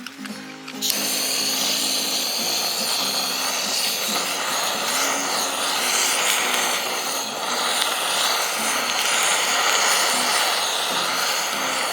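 Food sizzling and spitting in hot oil or on a hot grill, a dense steady hiss that starts suddenly about a second in. Background music plays underneath.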